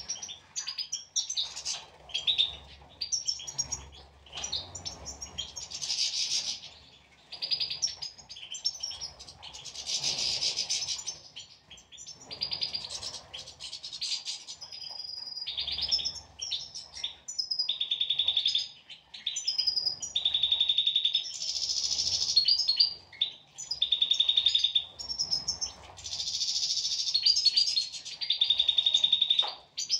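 European goldfinches singing: rapid, tinkling twittering phrases in bouts with short pauses, with buzzy trills on one note in the second half.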